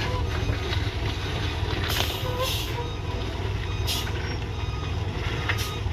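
Heavy truck's diesel engine rumbling low and steady on a steep climb. Short hisses of air cut in four times, typical of a truck's air brakes, while the truck is held or eased back after failing to climb.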